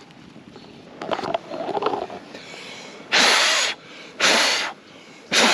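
Three short, strong puffs of breath, about a second apart, blowing on a marshmallow toasted over a campfire until it is burnt.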